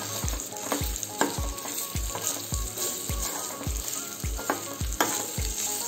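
Grated fresh coconut sizzling as it fries in ghee in a small steel pan, with a steel spoon stirring it and now and then scraping against the pan. A steady low beat runs underneath.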